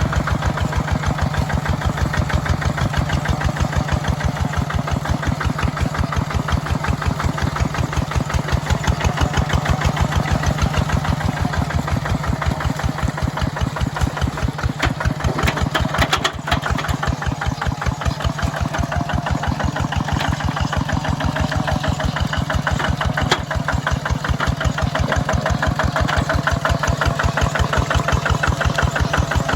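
Small tractor engine running steadily while plowing a wet rice field, with an even, rapid firing beat. The beat falters briefly twice, about midway and again a few seconds later.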